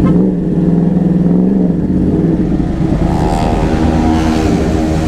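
Yamaha R1 crossplane 1000 cc inline-four engine running under way, its note dipping and then climbing again as the throttle opens about three seconds in.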